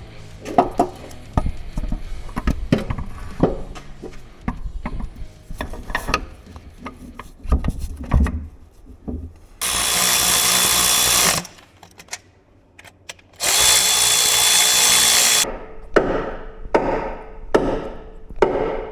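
Hand tools knocking and clicking on metal while a gearbox and clutch are bolted back in, with two steady bursts of about two seconds each from a power tool running, about ten and fourteen seconds in.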